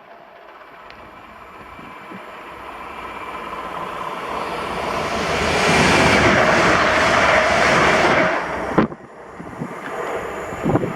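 Class 350 Desiro electric multiple unit approaching and passing at speed, its rush of wheel and air noise with a faint motor whine growing steadily louder, peaking, then cutting off suddenly about nine seconds in. Faint wind noise follows.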